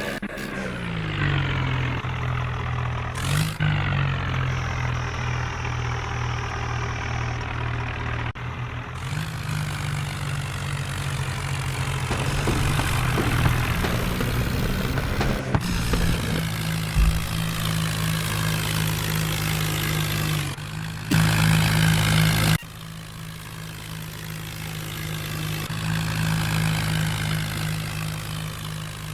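Heavy diesel engines of farm and construction machinery running steadily at a low, even pitch, with several sudden changes in level and tone along the way.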